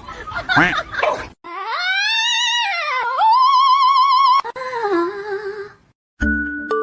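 A dog howling in one long, wavering call of about four seconds that rises, falls and ends by dropping in pitch. Near the end a light mallet-percussion music tune starts.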